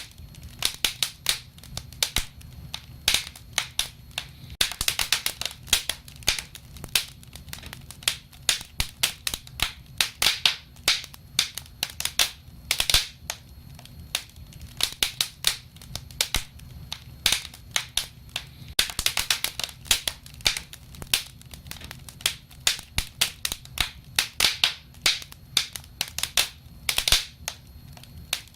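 Wood fire burning, crackling and popping irregularly over a low steady rumble of the flames, with clusters of sharp snaps.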